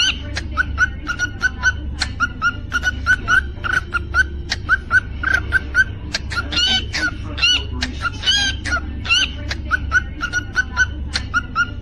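Cockatiel chirping in a fast run of short repeated chirps, several a second, broken twice by longer warbling whistles, over a steady low hum.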